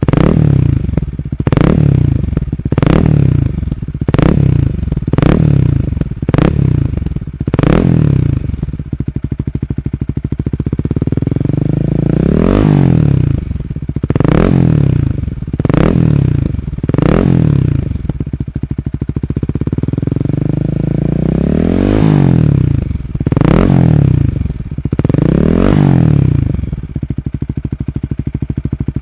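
2020 Honda Rebel 250's single-cylinder four-stroke engine breathing through an OVER Racing slip-on muffler, blipped repeatedly while standing: a quick run of about ten throttle blips, a spell of idling, then two groups of about four blips with idling between, recorded close to the exhaust outlet.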